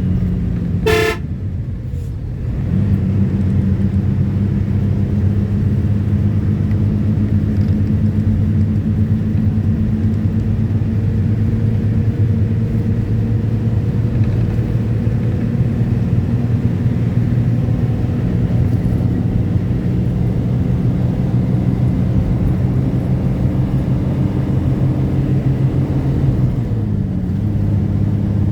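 A vehicle's engine running with a steady hum. A single short horn toot sounds about a second in, and the hum drops briefly before resuming.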